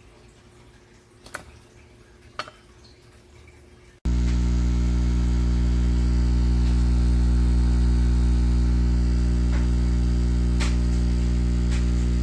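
Two faint clicks, then about four seconds in the Nescafé Dolce Gusto Genio 2 pod machine's pump starts suddenly and runs with a loud, steady buzz as it pushes water through the capsule.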